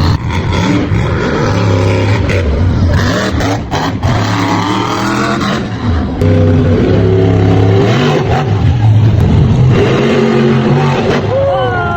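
Monster truck engines revving loudly, the pitch rising and falling repeatedly as the trucks accelerate and ease off.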